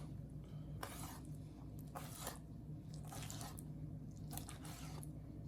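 Knife slicing through a piece of raw chicken: a few faint, soft squishy cuts about a second apart.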